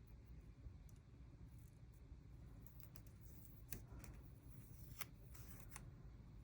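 Near silence, with a few faint short clicks in the second half from paper stickers being peeled off a sheet and pressed onto a journal page.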